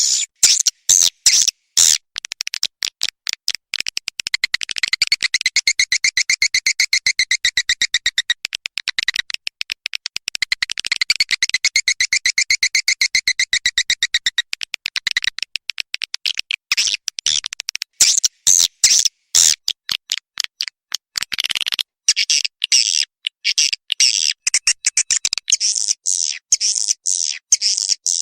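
Edible-nest swiftlet calls: rapid trains of high chirps and clicks with stretches of dense twittering. This is a recorded call track of the kind played at swiftlet houses to draw the birds in to roost and nest.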